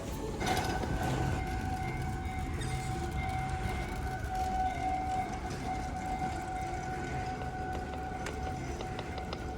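Airport shuttle train running: a steady electric whine at several pitches sets in about half a second in, over a low rumble of the car.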